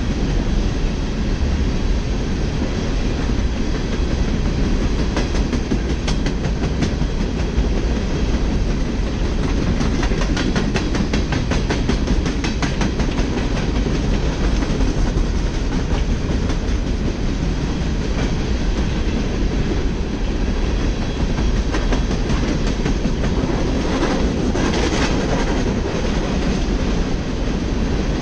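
Empty coal hopper cars of a freight train rolling past, a steady rumble with the wheels clicking over the rail, the clicks coming thickest around the middle.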